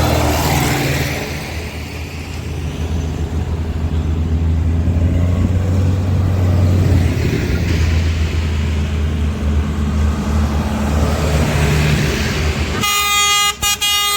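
Tractor diesel engines running with a steady low drone. Near the end a horn blasts loudly, with a brief break in it.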